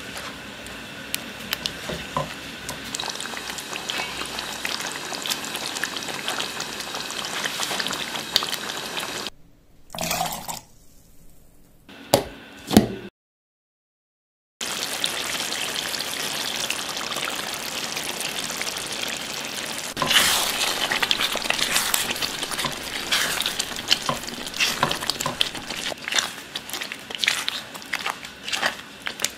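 Palak chicken gravy sizzling in a nonstick pan as a wooden spatula stirs and scrapes through it. About ten seconds in there is a break of quieter sounds with a couple of sharp knocks, then a brief silence. After that the sizzling and stirring resume, louder in the last third.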